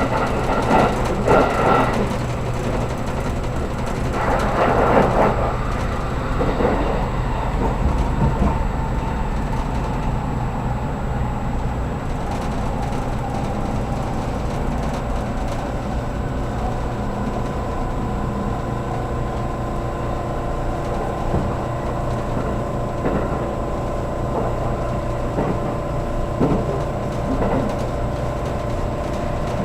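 Cabin noise of a JR Kyushu 783 series electric limited express running along the line: a steady rumble, with a few short clatters in the first six seconds and a steady whine from about eight seconds in.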